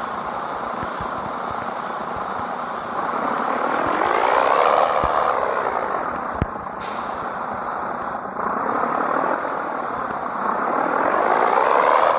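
Scania 113 truck's straight-six diesel pulling away, its engine note climbing and dropping back twice as it works up through the gears. A short hiss of released air is heard about seven seconds in.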